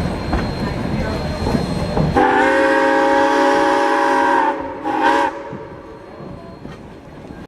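Steam locomotive whistle sounding several notes at once: one long blast of about two seconds, then a short blast, over the rumble of the moving train.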